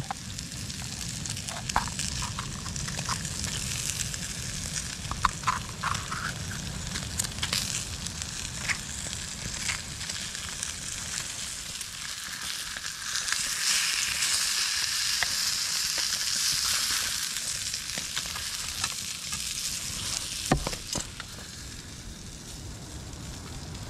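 Leeks, shallots and chunks of red pepper sizzling in oil in a titanium pan over an open fire, with scattered clicks and scrapes as a wooden spoon stirs them. The sizzle grows louder for a few seconds around the middle.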